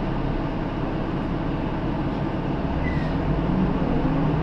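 Hino Rainbow II city bus running, heard from inside the passenger cabin: a steady engine and road rumble, with a brief high squeak about three seconds in.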